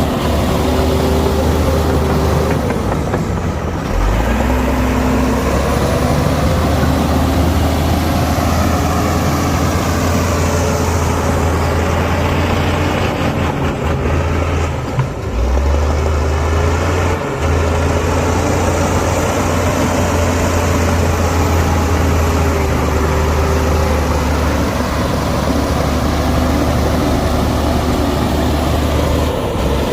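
Heavy diesel engine of earthmoving machinery running continuously, its pitch rising and falling slowly, with brief dips about 4 and 15 seconds in.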